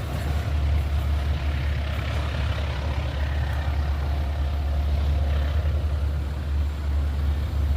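Passenger train hauled by a diesel-electric locomotive passing close by: a steady, heavy low rumble under a wide rushing noise.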